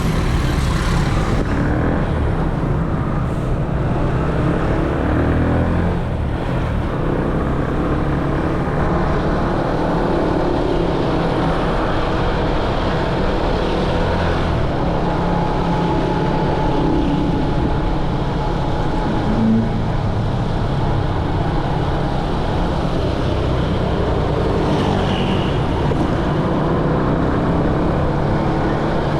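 Motorcycle running steadily through dense street traffic of other motorbikes, a continuous low engine and road rumble. A short tone stands out about two-thirds of the way in.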